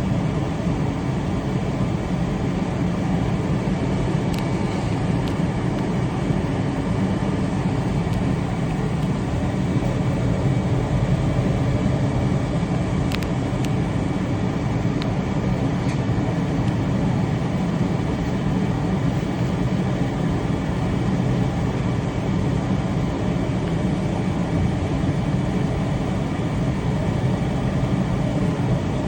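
Passenger train running at steady speed, a continuous low rumble of wheels on rail with no change in pace.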